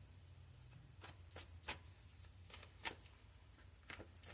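Tarot cards being shuffled: a run of faint, quick card flicks starting about a second in.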